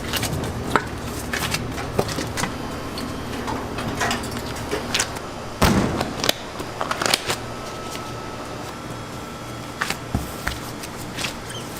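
Scattered knocks and clatter, the loudest about halfway through, over a steady background hum, with a faint steady whine in the second half.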